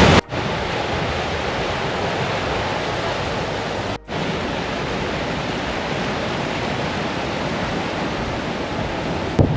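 Steady rushing of fast-flowing water, broken by two brief dropouts, one just after the start and one about four seconds in.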